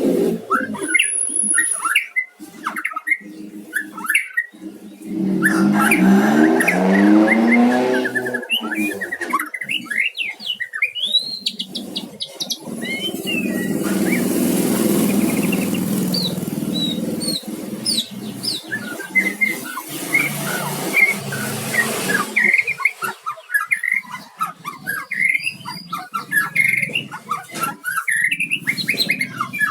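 White-rumped shama (murai batu) singing a quick, varied run of chirps and whistled phrases. Behind it a motor vehicle's engine rises and falls about six seconds in, followed by a steady engine hum through the middle.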